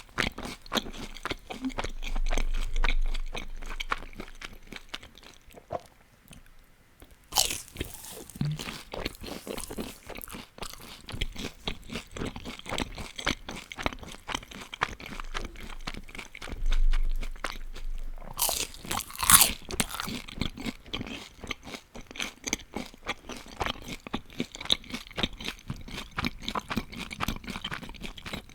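Close-miked crunching and chewing of crispy deep-fried food (spring rolls and onion rings): a dense run of crackling crunches. There is a brief lull about six seconds in, then loud bites at about seven and a half and again at about nineteen seconds.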